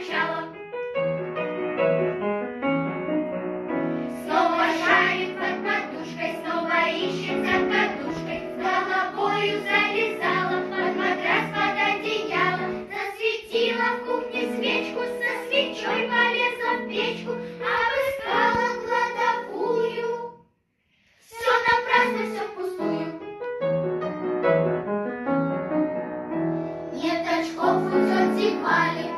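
Children's vocal ensemble singing a humorous children's song with piano accompaniment. The music breaks off into silence for about a second roughly two-thirds of the way through, then resumes.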